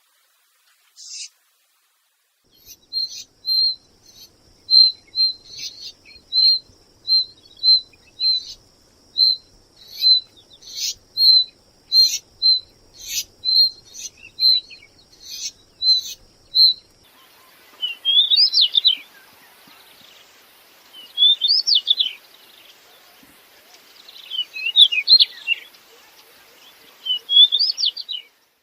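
A Saxicola chat calling: a steady series of short whistled notes mixed with sharp ticking 'tak' clicks, about one and a half notes a second. This gives way to four short scratchy warbled song phrases a few seconds apart.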